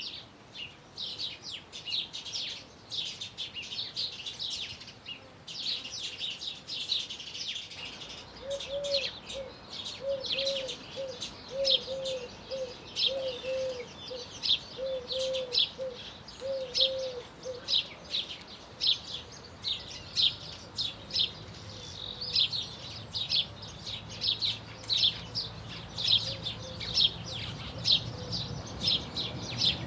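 Small birds chirping and twittering continuously, many short high chirps in quick succession. From about eight seconds in to about eighteen seconds, a lower call of short rounded notes repeats beneath them.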